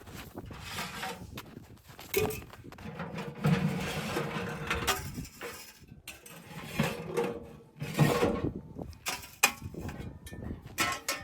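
Irregular handling noises: scattered knocks and clinks with rustling and scraping in between, the longest stretches of rustling around a third of the way in and again past the middle.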